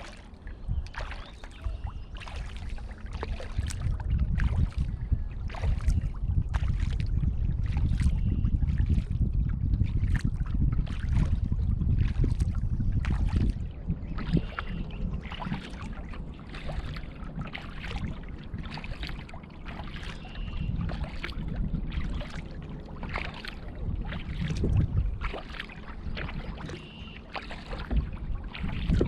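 Kayak paddling: short splashes and drips of the paddle blades at a steady pace, a bit under two a second, with wind rumbling on the microphone, strongest through the first half.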